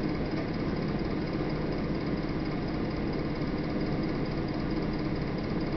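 A steady low rumbling noise with no distinct events, like a running motor or machine hum.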